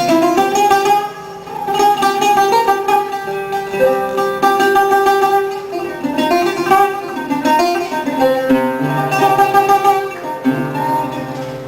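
Background music played on a plucked string instrument, most like an acoustic guitar, with notes changing every second or so.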